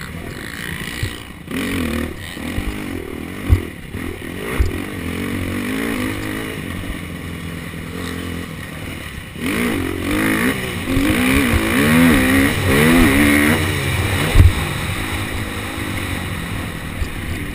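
KTM SX250F four-stroke single-cylinder motocross engine revving up and down as the bike is ridden, pulling harder from about halfway in. There are a few sharp thumps, the loudest a little before the end.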